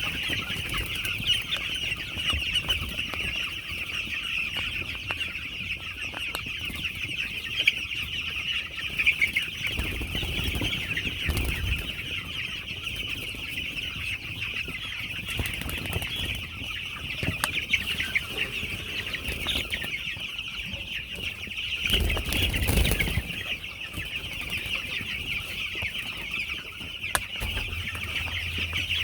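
A large flock of two-week-old broiler chicks peeping continuously in a dense, high chorus. Low rumbles come twice, about ten seconds in and again around twenty-two seconds.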